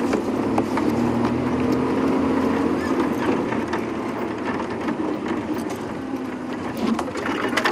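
Safari game-drive vehicle's engine running as it drives off-road through the bush, with a few sharp knocks along the way.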